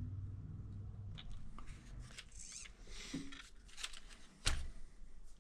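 Light clicks and rustles of the RC crawler's plastic parts and shocks being handled, with one sharper click about four and a half seconds in. A low hum fades out during the first second.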